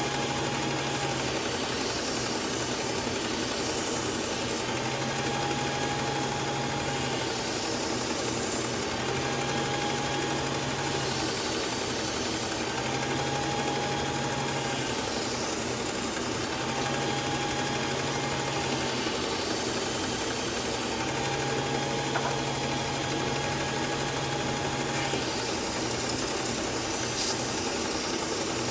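Motorised belt sharpener running steadily as a kitchen knife is drawn across the belt in repeated passes to refine the edge. The tone changes for a second or two about every four seconds as each pass is made.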